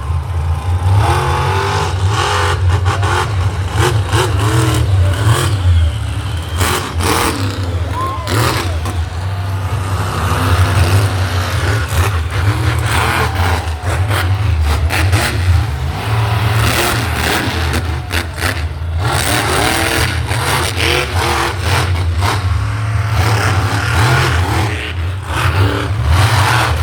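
Monster truck engine revving hard, its pitch rising and falling repeatedly over a heavy low rumble, with sharp bursts of noise throughout.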